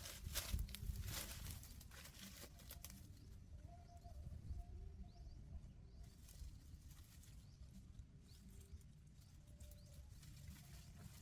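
Quiet outdoor ambience: a few sharp clicks and knocks in the first three seconds, then a low steady rumble with faint short whistles and small ticks.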